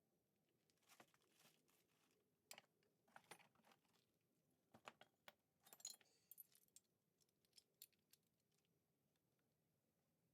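Small metal hand tools clicking and clinking against the engine casing as its screws are tightened by hand, in irregular bursts of light ticks that thin out after about six seconds.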